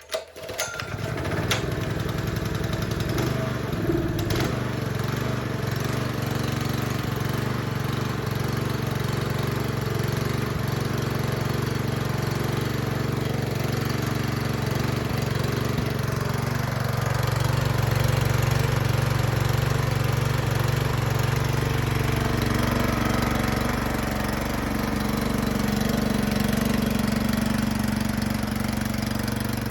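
Honda GX160 single-cylinder four-stroke engine starting and catching, then running steadily, its speed shifting slightly about halfway through.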